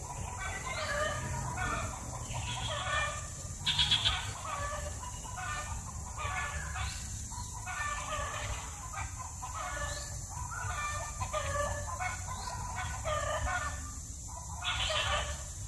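Birds calling over and over in short, pitched calls, several a second, with a louder call about four seconds in and another near the end.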